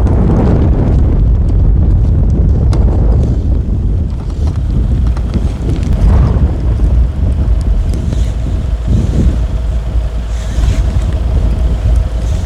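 Strong gusty wind blowing hard across the microphone: a loud, heavy buffeting that swells and eases, from a snowstorm with strong gusts.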